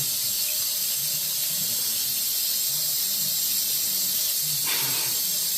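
Tap water running with a steady hiss.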